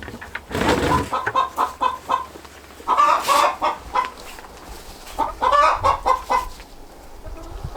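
Chickens clucking in several short bursts of quick, repeated clucks, with quieter gaps between.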